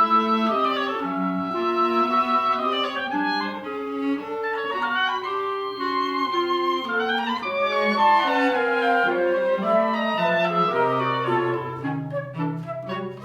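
Chamber music for woodwinds and cello: several interweaving melodic lines with the clarinet prominent. A low held note, likely the cello, comes in about three quarters of the way through.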